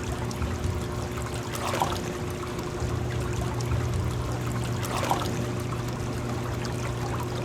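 Water pouring and splashing through a river smolt trap, a steady rushing with a low steady hum underneath. Two brief louder splashes come about three seconds apart.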